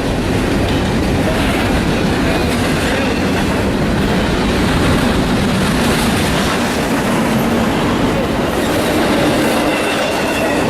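A train rolling past on the tracks, its wheels clattering steadily over the rails, with a faint high wheel squeal near the end.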